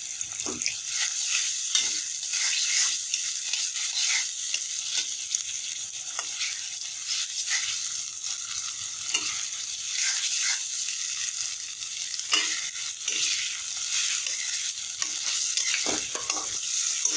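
Sliced onions frying in hot oil in a metal karai: a steady sizzle, with a metal spatula scraping and knocking against the pan at irregular moments as they are stirred.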